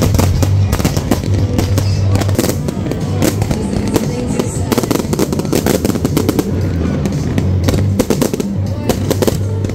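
Aerial fireworks bursting in rapid, irregular bangs and crackles, over loud music with a heavy bass line.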